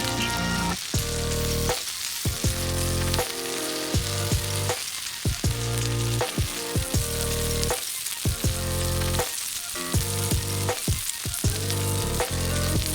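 Food frying and sizzling, a steady hiss, with background music that has a steady beat playing over it.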